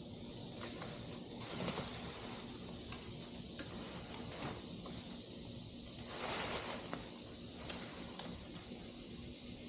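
Quiet steady background hiss with a faint hum, broken by a few light clicks and knocks and a soft rustle about six seconds in.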